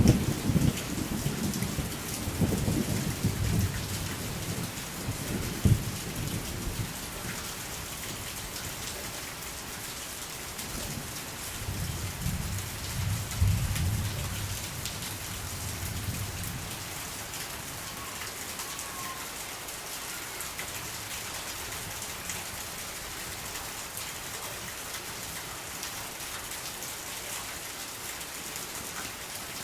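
Steady rain falling, with thunder rumbling low in the first few seconds and again about twelve seconds in, then rain alone.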